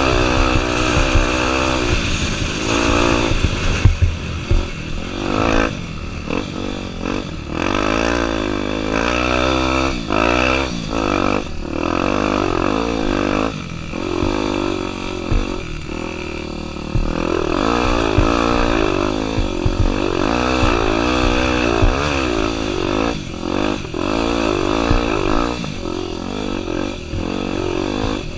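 Honda Tornado 250's single-cylinder four-stroke engine being ridden hard off-road, its pitch climbing and dropping again and again as the throttle opens and closes. There are occasional knocks and clatter from the bike.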